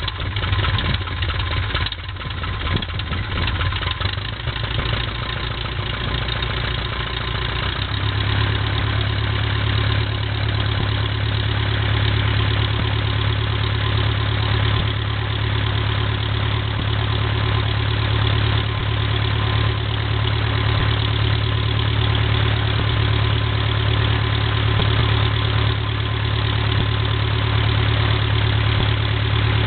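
Continental O-200 air-cooled flat-four aircraft engine and propeller idling on its first run. It is a little uneven for the first several seconds, then settles to a steadier, slightly higher-pitched idle about eight seconds in.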